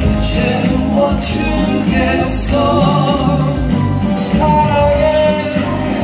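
A live song performance: singing over a loud backing track with bass, guitar and recurring cymbal hits.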